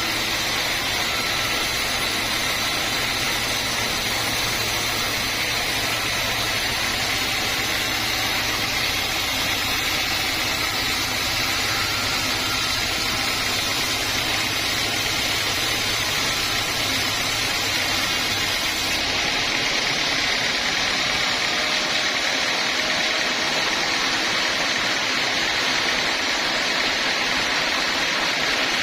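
Band sawmill running with a steady, loud mechanical noise. The low motor hum underneath cuts out about two-thirds of the way through while the saw noise carries on.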